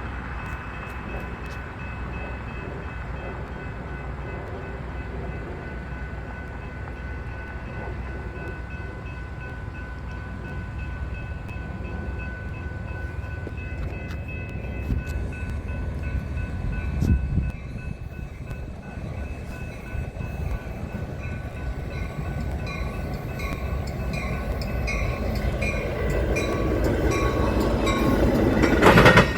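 Train approaching, its rumble growing louder over the last few seconds, with steady ringing tones in the background.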